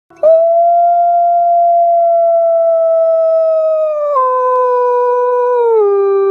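Wolf howling: one long, loud howl that starts suddenly and holds its pitch, then drops in two steps, about four seconds in and again near the end.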